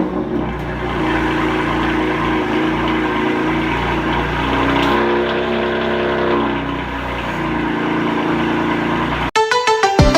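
BMW M4's twin-turbo straight-six engine running, its revs rising and falling briefly around the middle. It cuts off abruptly near the end into music with a sharp beat.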